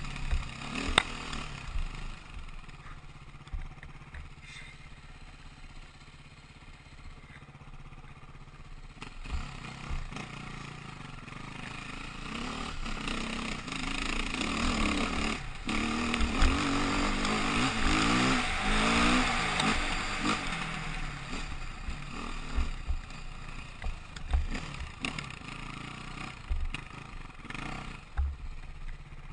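KTM motorcycle engine running while riding, its note rising and falling with the throttle and loudest around the middle, with short low thumps throughout.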